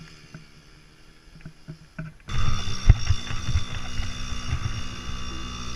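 Yamaha PW50 two-stroke minibike engine running faintly, with a few clicks. About two seconds in, the sound jumps abruptly to loud, close engine noise with low rumbling thumps.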